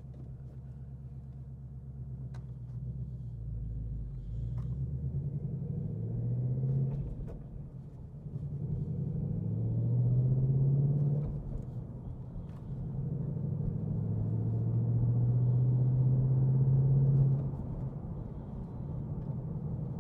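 Ford Mustang GT's 5.0 L V8 with active valve exhaust in track mode, pulling under acceleration. The engine note climbs in pitch and drops back three times, about a third of the way in, just past halfway, and near the end. It is loudest on the last two climbs.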